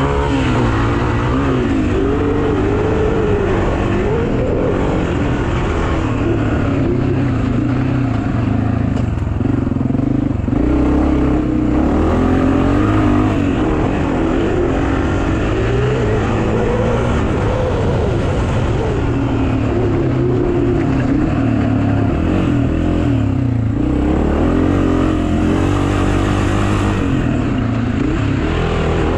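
Pit bike engine running hard, its pitch rising and falling again and again as the throttle opens and closes.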